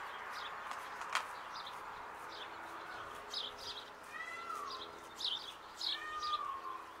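Small birds chirping in short repeated notes, with two longer falling calls about four and six seconds in and a single sharp click about a second in.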